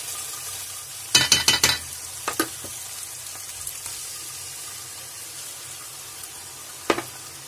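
Spice masala sizzling steadily in hot oil in a metal wok. About a second in comes a quick run of sharp metal clinks from utensils being scraped and knocked, then a couple more, and a single clink near the end.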